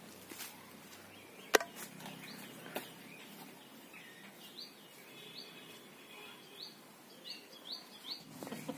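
Small birds chirping in a run of short, quick notes over a quiet outdoor background. A single sharp click or snap sounds about a second and a half in, with a fainter one a second later.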